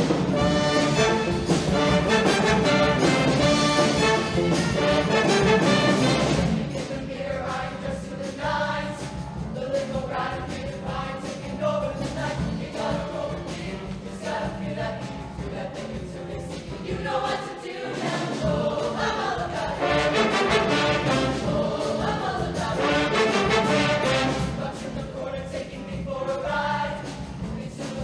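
Show choir singing in full harmony over instrumental backing, loud and full for the first few seconds, then a softer passage, swelling again about two-thirds of the way through.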